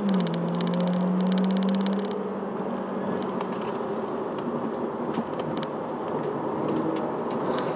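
Toyota Celica's engine heard from inside the car at speed on track: a steady engine note that dips just at the start, holds for about two seconds, then fades under road and wind noise, picking up again near the end. A fast light rattle ticks over the engine note in the first two seconds.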